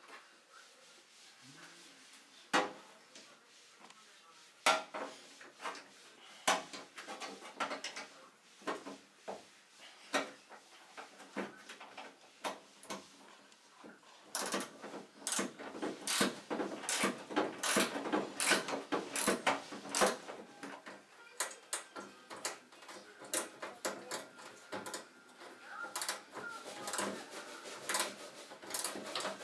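Irregular clicks, taps and clinks of hand tools and metal parts being handled, sparse at first and coming thick and fast from about halfway in.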